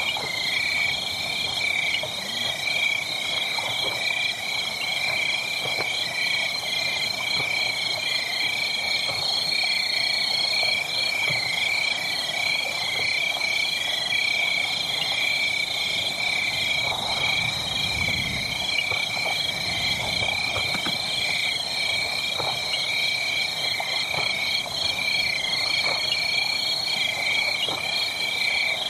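Loud, steady chorus of high, rapidly pulsing animal calls, layered over the faint irregular crackle and pops of a wood fire.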